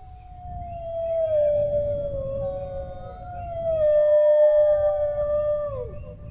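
A dog howling: one long howl that slides slowly down in pitch, holds, then drops off near the end, with a second, higher howl overlapping briefly in the middle.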